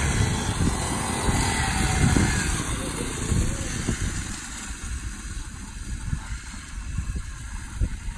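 Small two-stroke engines of 40cc mini pocket bikes buzzing faintly, their pitch rising and falling early on, then fading after about four seconds, under an irregular low rumble.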